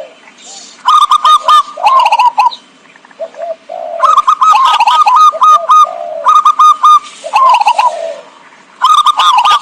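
Zebra doves cooing: repeated phrases of quick, staccato coos, each phrase lasting about one to two seconds with short pauses between.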